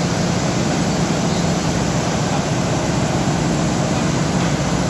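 Airbus A320 jet engines running steadily: a constant loud rush of noise over a low hum, without change.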